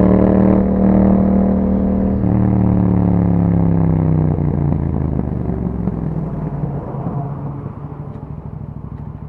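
2021 Yamaha MT-07's 689 cc parallel-twin engine running through an Akrapovic exhaust. It pulls at steady revs for about two seconds and has a short break, then the revs fall as the throttle closes, and it settles into a quieter, uneven low note as the bike slows.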